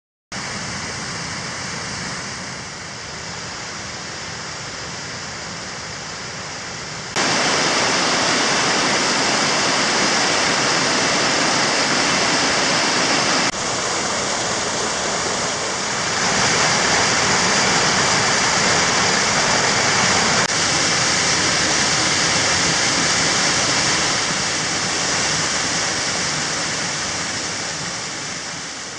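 Water of a river's small waterfalls and cascades rushing steadily over rocks. The sound changes abruptly in loudness a few times, louder after about seven seconds, and fades near the end.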